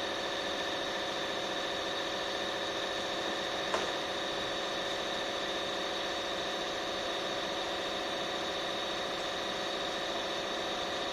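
Steady machine hum with several steady whining tones held throughout, and a single sharp click about four seconds in.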